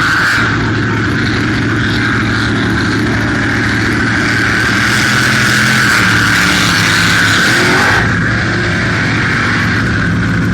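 Jet sprint boat's racing engine running hard, a loud, steady engine drone whose note shifts a little partway through.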